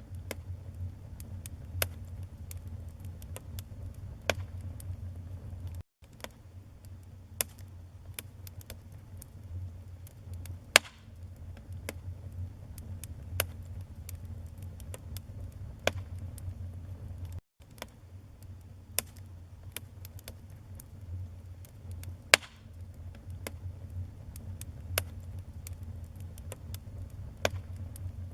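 Wood fire burning: a steady low rumble of flames with irregular crackles and sharp pops of burning logs, a few of them loud. The sound drops out for an instant twice.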